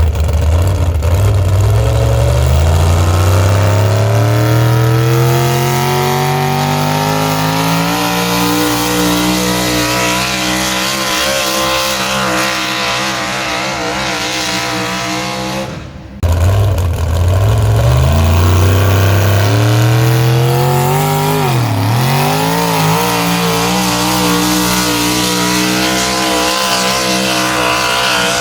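Pulling-vehicle engine at full throttle, its pitch climbing steadily for several seconds and then holding high under load. The sound cuts off suddenly just past halfway, and a second run starts, climbing again. Its revs dip briefly and recover near the end.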